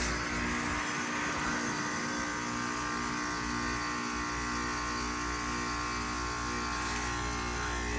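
2-ton Bryant Legacy Line heat pump outdoor unit running in a defrost cycle: a steady mechanical hum with several held tones over a constant hiss.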